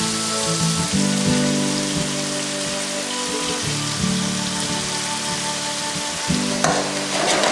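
Food sizzling as it fries in a pan, a steady hiss, with a louder burst of stirring and scraping near the end. Background music with sustained tones plays over it.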